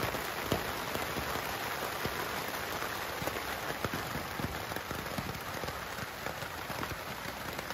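Steady rain falling on a tent's fabric, heard from inside the tent: an even hiss with many small drop taps.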